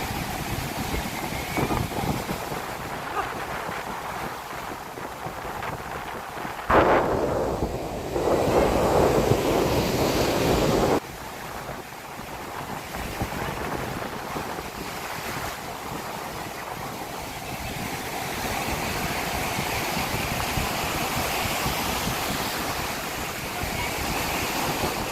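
Sea waves washing onto a beach at high tide, with strong wind buffeting the microphone. A louder rush of wind noise comes about seven seconds in and cuts off suddenly about four seconds later.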